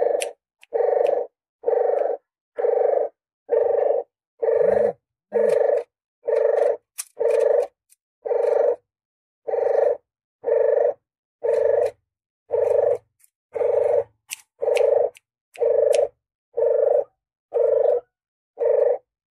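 Puter geni dove cooing over and over, short low coos about one a second, each cut off into silence before the next: a looped bird-lure call.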